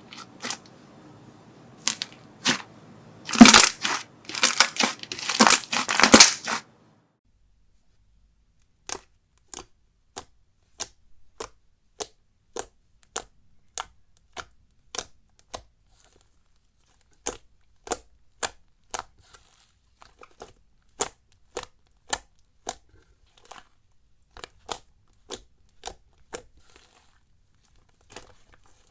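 Slime being worked by hand, crunching and crackling densely for about six seconds. After a short silence come single sharp crackles, roughly one a second, with a brief pause midway.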